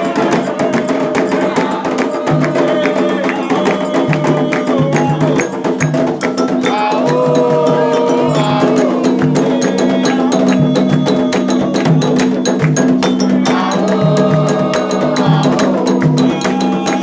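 Candomblé ritual music: hand drums and a struck percussion instrument keep up a steady rhythm while voices chant in phrases.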